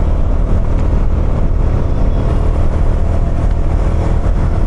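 Bajaj Dominar 250's single-cylinder engine and exhaust running steadily under way, heard from the rider's position, with an even, unbroken engine note.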